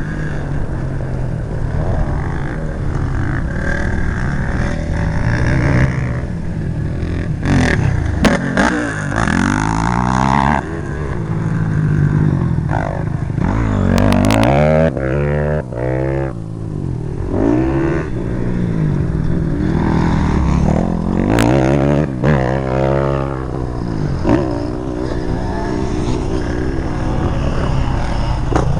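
Motocross bike engine revving hard, its pitch rising and falling over and over as the throttle opens and closes, with a few sharp clicks along the way.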